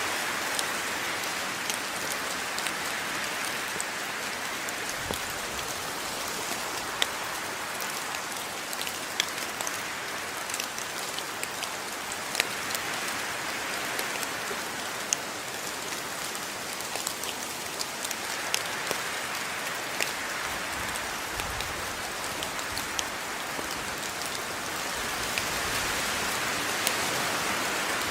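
Steady rain falling, a continuous hiss with many distinct drops ticking sharply on a hard surface.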